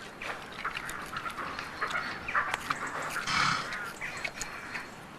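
A woodland animal foraging for acorns in leaf litter: many short crunches and rustles with snuffling, a little louder about three and a half seconds in.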